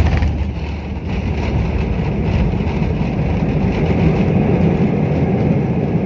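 Airliner cabin noise during the landing roll: a loud, steady rumble of engines and wheels on the runway, with a short knock right at the start.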